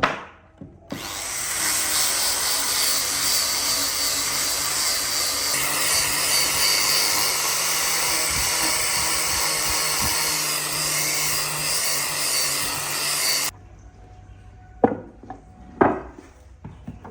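A power tool running on wood for about twelve seconds, then cutting off suddenly, followed by two short knocks. A sharp knock comes just before it starts.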